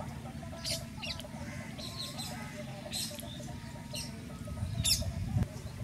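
Birds chirping: short high calls come irregularly, about eight in a few seconds, over a faint steady outdoor background.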